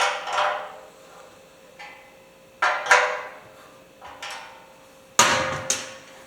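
Metal clanks and knocks on an empty steel tractor fuel tank while a pipe plug is fitted into its outlet. There are several sharp strikes, mostly in close pairs, each ringing briefly in the hollow tank.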